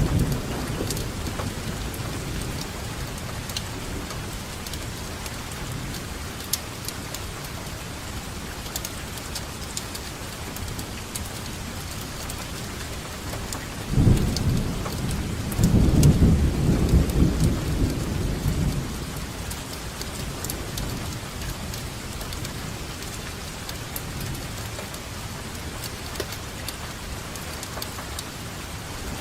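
Steady rainfall with scattered drop ticks, and thunder: a low rumble dying away at the start, then a sudden clap about halfway through followed by a few seconds of rolling rumble.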